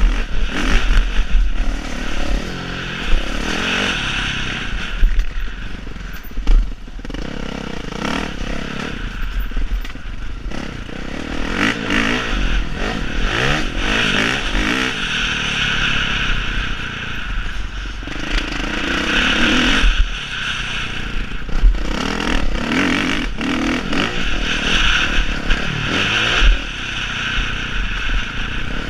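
Motocross dirt bike engine revving up and down over and over as it is ridden, with rattling knocks and heavy low thumps throughout.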